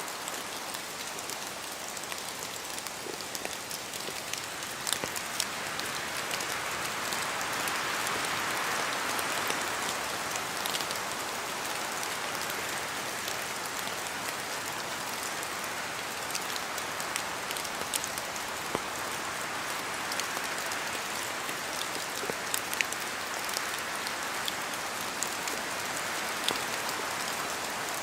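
Rain falling in a spruce forest, with wind in the trees: a steady hiss with scattered individual drops landing close by. The hiss swells for a few seconds about a quarter of the way in, then settles.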